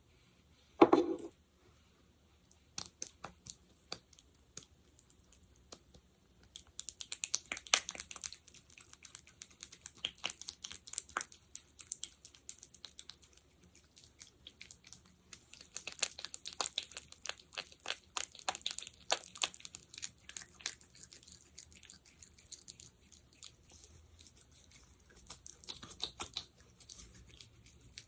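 Sticky, tacky crackling of fingers working a sticky gel, coming in dense runs of quick clicks with quieter gaps between. A brief, louder bump about a second in.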